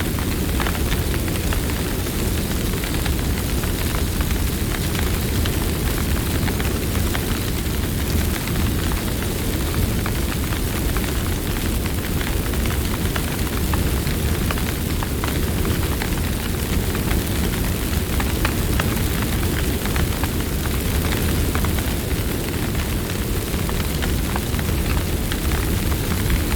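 Campfire burning and crackling: frequent small pops and snaps over a steady low rumble of the flames.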